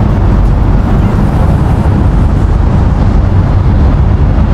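Wind blowing across the microphone on the open deck of a moving river ferry: a loud, steady low rumble.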